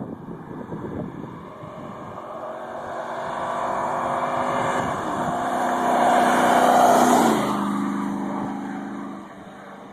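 Chevy Silverado 1500 pickup with a Magnaflow exhaust driving past. The engine note grows louder as it approaches, peaks about seven seconds in, then drops in pitch and fades as it goes by.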